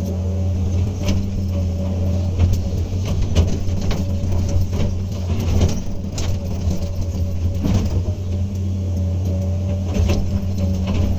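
Komatsu PC200 excavator's diesel engine running steadily under work, with sharp knocks and clanks at irregular intervals throughout.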